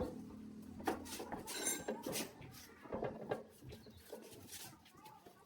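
Scattered light clinks and knocks of hard objects being handled, with one sharp knock at the start.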